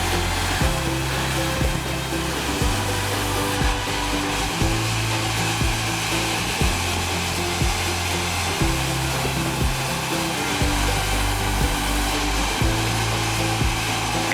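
Sawmill machinery running with a steady whooshing noise, under background music with a low bass line and a thump about once a second.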